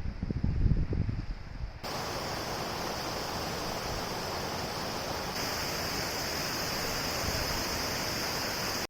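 Wind buffeting the microphone in low gusts, then, after a sudden cut about two seconds in, the steady rush of a mountain stream flowing over rocks.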